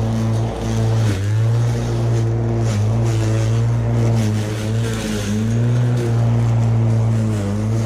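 Bosch Rotak 37 LI 36V cordless lawn mower cutting grass: a steady electric motor and blade hum, its pitch dipping briefly about four times.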